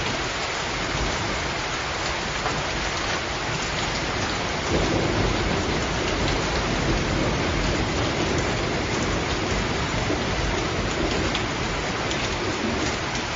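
Steady rain falling, with a low rumble of thunder that swells in about five seconds in and rolls on through most of the rest.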